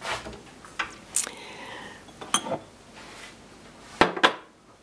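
Cups and cutlery being handled while making tea: scattered clicks and clinks, one with a short ring about two seconds in, and two sharp knocks near the end.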